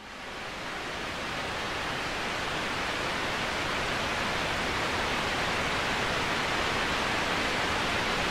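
Waterfall: a steady rush of falling water that fades in over the first second or two, then holds level.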